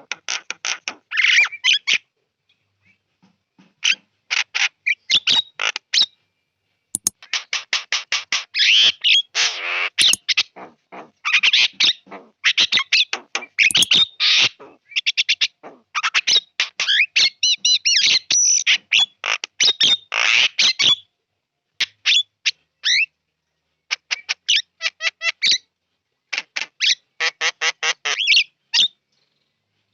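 Javan myna (jalak kebo) singing loudly: rapid trains of short, harsh chattering notes and whistles, delivered in bursts with brief pauses between them.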